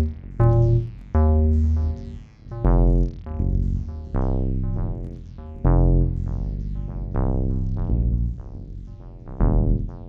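Acid-style synthesizer line played on the AcidMachine app: a sequence of pitched notes, each bright at its start and closing down quickly as the resonant filter falls, over deep sustained bass notes.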